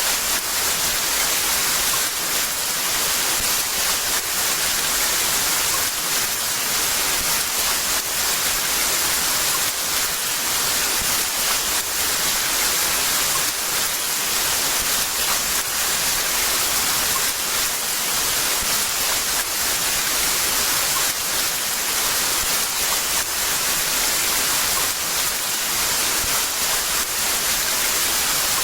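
Heavy rain falling steadily, a dense even hiss with fine patter and no let-up.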